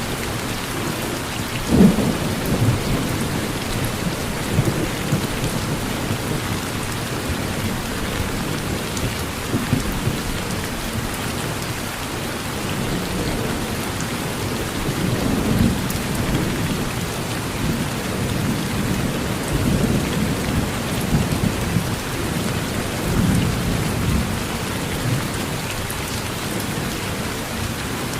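Steady rain falling on a porch, with repeated low rumbles of thunder; the strongest rumble comes about two seconds in, and others follow around the middle and later on.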